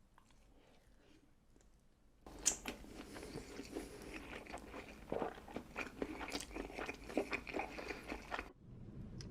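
Close-miked mukbang eating: a person biting and chewing food with dense, crackly crunching mouth sounds. It starts about two seconds in after a faint lead-in and cuts off abruptly near the end.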